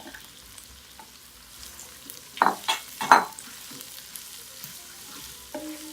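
Onions frying in hot peanut oil with spices, a steady sizzle in the pot. Three loud clatters come in quick succession about two and a half to three seconds in.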